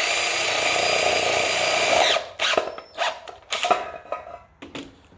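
Electric drill drilling holes in a dog dish hubcap: a steady whine for about two seconds, then several short bursts as the trigger is blipped.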